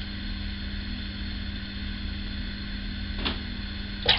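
Steady background hum and hiss, with a faint click about three seconds in and a sharper click near the end.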